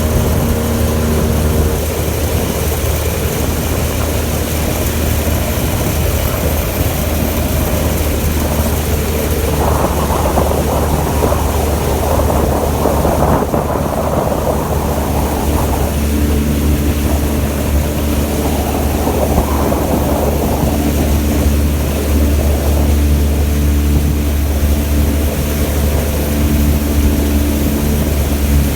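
A 15 hp outboard motor running steadily under way on a Yuzhanka 2M motorboat, its low, even drone unbroken. A rushing noise swells twice over it, about a third of the way in and again past the middle.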